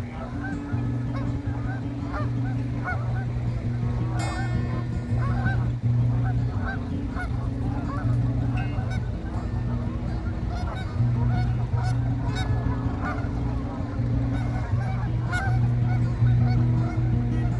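A large flock of Canada geese honking, many short calls overlapping continuously, over low background music.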